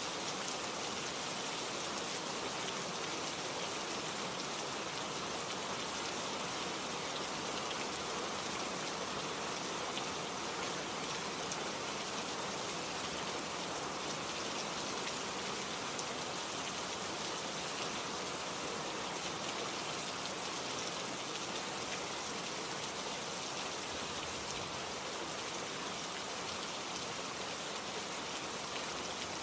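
Steady rain falling, a continuous even hiss of many drops with fine patter on a surface.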